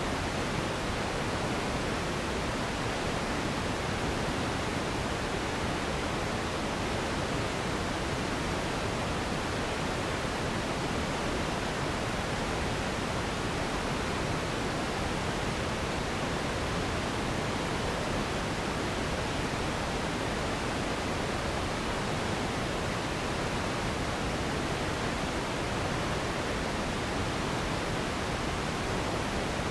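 Steady, unchanging pink noise used as a sleep sound: an even hiss with no rhythm or events, a little softer in the highest treble.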